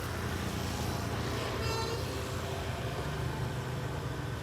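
Steady low rumble of road traffic, with one short high-pitched tone about two seconds in.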